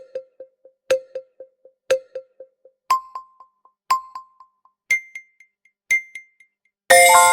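Quiz countdown timer sound effect: a bright electronic tick once a second, each followed by fading echoes, stepping up in pitch twice as time runs out. Near the end a loud ringing chime chord sounds, marking time up.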